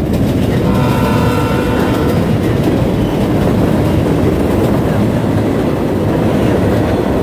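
CN freight train rolling past, a steady heavy rumble of wheels on rail. A brief high ringing tone sounds about a second in.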